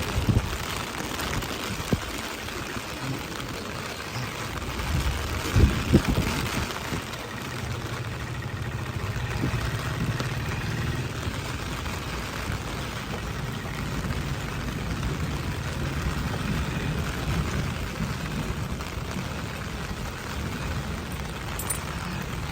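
Steady rain hiss with a low rumble of street traffic underneath, and a few loud knocks about five to six seconds in.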